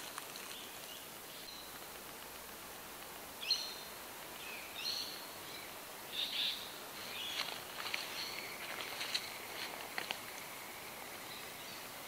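Birds calling: a string of short, separate calls from about three seconds in until near the end, over a faint steady outdoor background, with a few sharp ticks among them.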